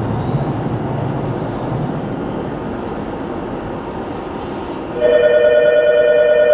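Sotetsu 10000 series electric train running along the line, a steady rumbling noise. About five seconds in, a loud steady two-note tone starts suddenly and holds over the running noise.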